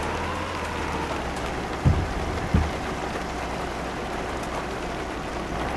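Steady running noise of a moving truck: a constant low engine hum under an even hiss, with two low thumps a little after two seconds in.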